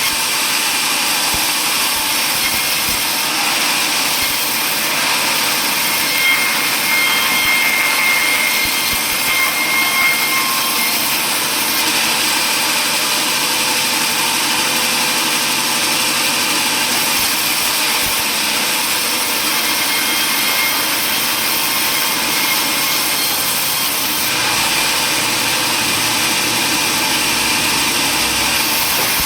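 Power saw running while cutting wood, loud and steady throughout, with a faint high whine about six to ten seconds in.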